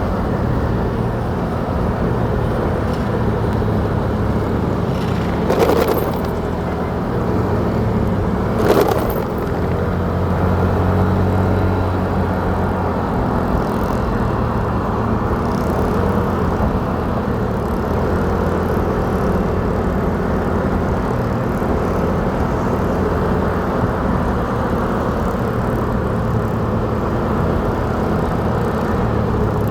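Motorcycle engine running at a steady cruise with road and wind noise. There are two brief louder rushes about 6 and 9 seconds in.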